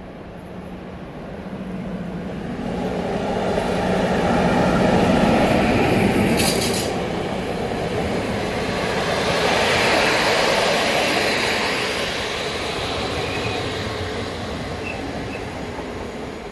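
SU42 diesel locomotive hauling double-deck passenger coaches past at speed. The engine's steady hum builds as it approaches and is loudest about five seconds in. The long rolling rumble of the coaches' wheels follows, with a faint brief squeal near the end.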